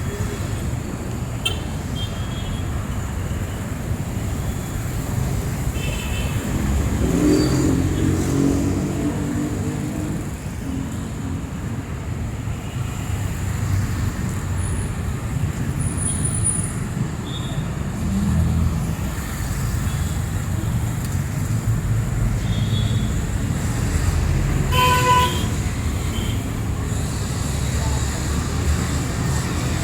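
City street traffic: a steady rumble of passing vehicle engines and tyres, with a vehicle horn honking briefly near the end.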